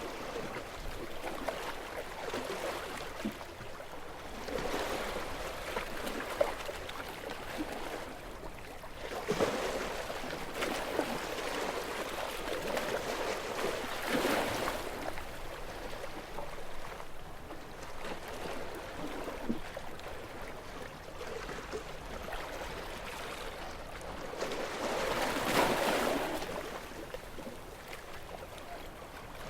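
Calm sea with small waves washing and lapping at the shore, swelling and fading every few seconds, the largest wash near the end.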